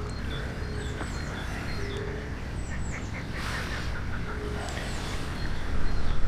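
Wild birds chirping, repeating short high notes that dip in pitch, over a steady background hiss, with a few louder bumps near the end.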